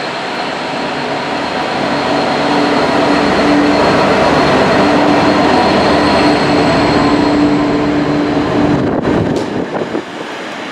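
Train passing close by: a loud rush of wheel and rail noise with a steady hum through it, swelling over the first few seconds, then cutting off abruptly about nine seconds in.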